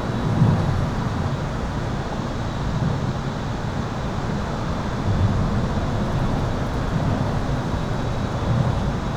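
Highway traffic heard from under an overpass: a steady low rumble of passing vehicles that swells a few times as vehicles go over. A faint, thin, steady high-pitched tone sits above it.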